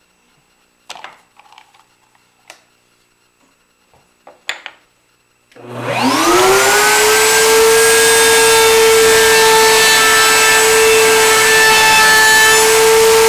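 A few light knocks of wood being handled, then a wood router is switched on about five seconds in: its motor whines up to speed and runs steadily with a loud high-pitched whine.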